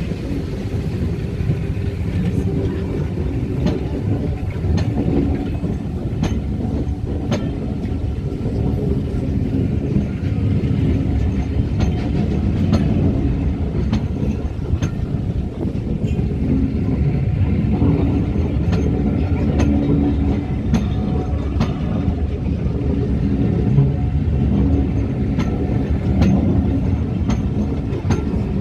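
Passenger coaches, maroon mainline stock and then umber-and-cream Pullman cars, rolling past at platform level. A steady low rumble of wheels on rail is broken by sharp clicks as the wheelsets cross rail joints.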